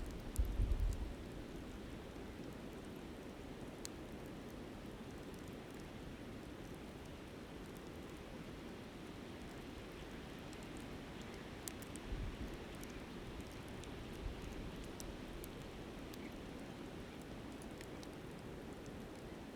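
Steady rushing of a flowing river, with scattered small crackles and pops from a wood campfire. Brief low buffets of wind on the microphone come about half a second in and again around twelve seconds.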